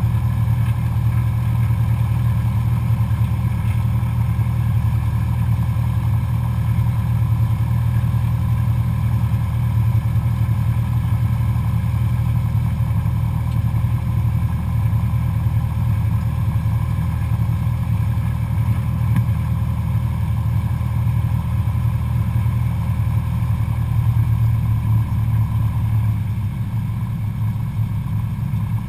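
Cessna 172SP Skyhawk's four-cylinder Lycoming engine and propeller running steadily with a deep drone, easing slightly in level and pitch about 26 seconds in.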